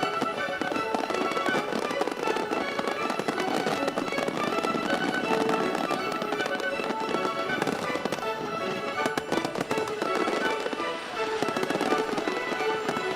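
Music plays with held melodic notes, mixed with a dense, continuous crackle and popping of fireworks.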